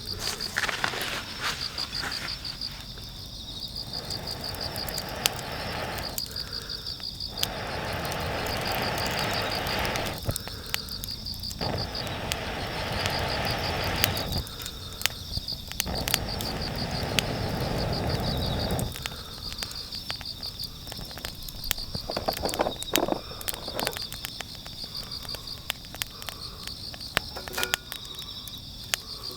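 Crickets chirping in a steady, rapidly pulsed trill, with frequent sharp cracks and pops. Several stretches of rushing noise, each a few seconds long, start and stop abruptly during the first two-thirds.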